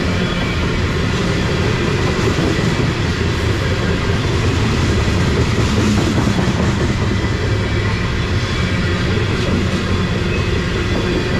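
Freight train of covered grain hopper cars rolling past: a steady rumble and clatter of steel wheels on the rails, with a thin high ring running underneath.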